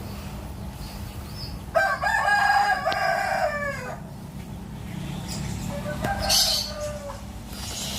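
Rooster crowing: one long crow that falls off at the end, then a shorter call a couple of seconds later, with a small bird chirping briefly over it, above a steady low hum.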